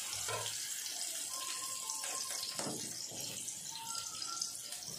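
Sliced onions sizzling in hot oil in a frying pan as they are sautéed, a steady hiss, with a single knock of the wooden spatula against the pan about two and a half seconds in.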